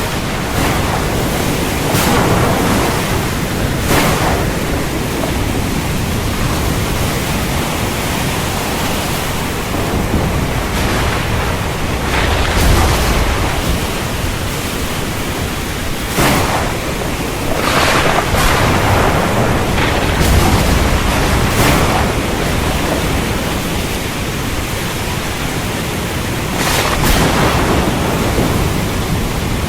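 Heavy, steady rainstorm with thunder: the rain's even hiss runs on while several sharp cracks and a few low rumbles swell and fade through it.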